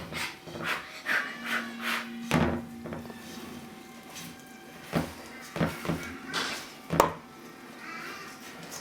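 Spoon knocking and scraping against a mixing bowl while brownie batter is stirred by hand, in irregular knocks, the loudest about seven seconds in.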